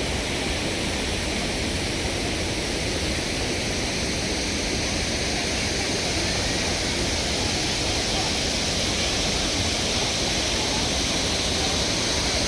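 Athirappilly Falls on the Chalakudy River: a steady, even rush of falling water.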